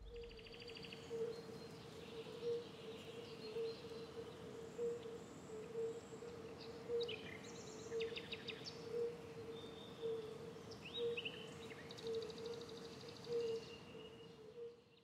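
Faint outdoor ambience with birds chirping and giving short fast trills, over a steady hum that swells about once a second.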